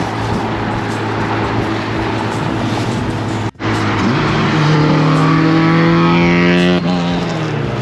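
Car cruising at speed with steady engine and road noise. After an abrupt break, an engine pulls hard, its pitch climbing for about two seconds before dropping back with a gear change near the end.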